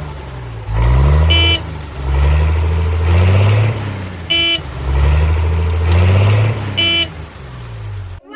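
Cartoon vehicle engine sound effect revving up and down over and over, with three short horn toots a few seconds apart.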